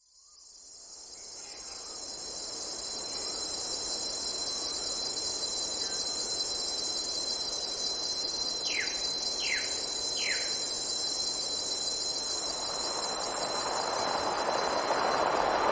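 Jungle ambience fading in from silence: insects keep up a steady high-pitched drone. About nine seconds in, three short falling calls come in quick succession, and near the end a rushing hiss swells louder.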